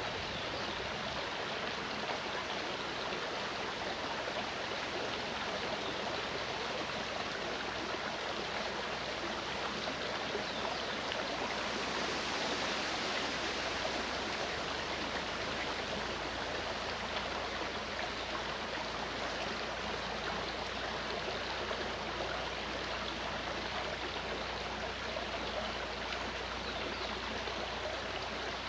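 Mountain stream running steadily, an even, unbroken rush of water.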